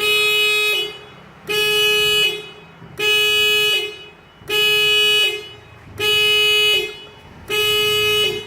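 Car alarm sounding six steady horn-like blasts of one tone, about 0.8 s each, one every second and a half. The alarm has been set off by three tries with an unregistered fingerprint, and it is programmed to sound twelve times.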